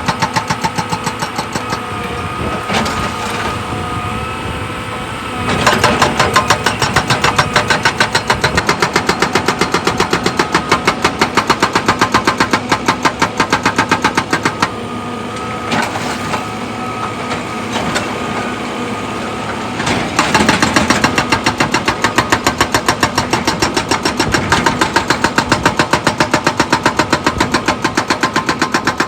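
Heavy machine's diesel engine running with a fast, regular knocking pulse, easing off twice and coming back louder.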